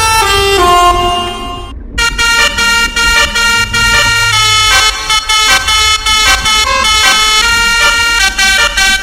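Bus telolet horn, a multi-tone musical air horn, playing a tune of stepped notes over a steady low rumble of engine and road. A falling run of notes stops abruptly just before two seconds in; after a brief gap a faster, choppier string of short notes follows.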